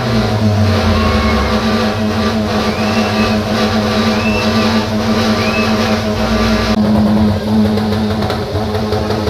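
Car engine running steadily, its pitch easing down early on after a rev and then holding level.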